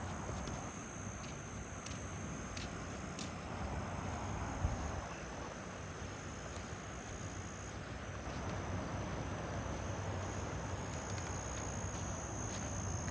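Steady high-pitched chorus of insects over a low, even outdoor rush of noise, with a single brief thump about four and a half seconds in.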